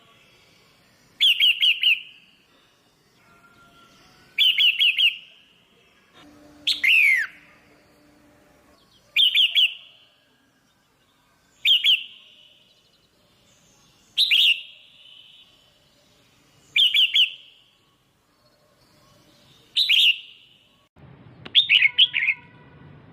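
Female red-whiskered bulbul calling in short bursts of three or four quick chirps every two to three seconds, one burst ending in a falling note. A low background hum starts near the end.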